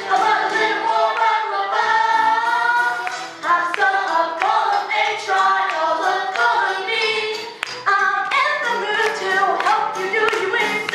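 Stage cast singing a lively show tune together, with a solo voice and group vocals over a recorded musical backing track.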